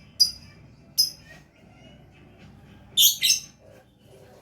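Lovebird calling with high-pitched chirps: two short ones about a quarter second and a second in, then a louder double call about three seconds in.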